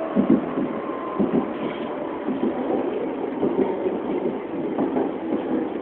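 Inside an ISAP electric metro train running at top speed, a steady wheel-and-track noise rises and falls, broken by irregular knocks and thuds from the track.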